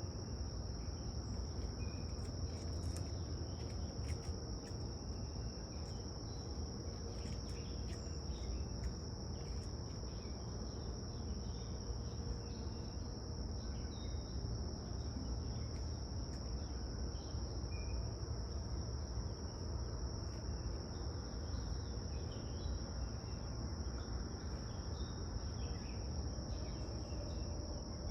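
A steady, unbroken high-pitched insect chorus, with brief bird chirps scattered through it over a low background rumble.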